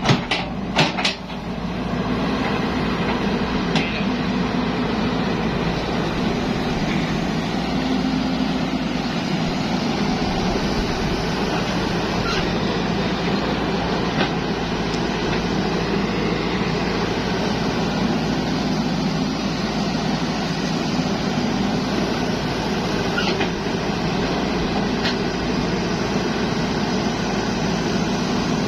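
Zoomlion excavator's diesel engine running steadily under work, with a few sharp clicks and knocks in the first second or so.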